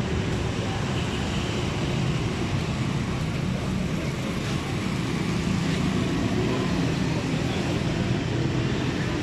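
Steady hum of road traffic, with no distinct single event standing out.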